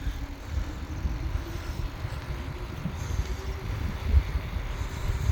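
Wind buffeting the microphone of a rider on a moving bicycle, a steady uneven low rumble with road noise, and a brief louder thump about four seconds in.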